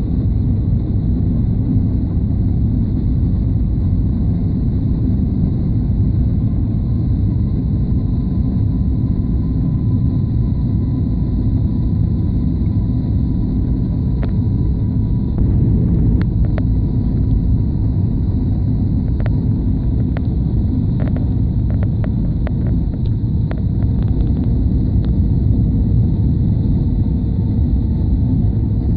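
Steady low rumble of an airliner cabin in flight on approach, with faint steady whine tones and a scatter of short clicks and rattles through the second half.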